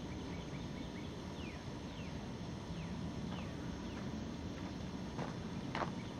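Birds chirping, many short falling chirps, over a steady low outdoor background noise, with two louder short calls near the end.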